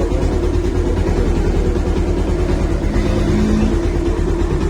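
Bajaj Pulsar 150's single-cylinder four-stroke engine running steadily, its timing freshly set and a new cam-chain tensioner fitted to cure a strange engine noise.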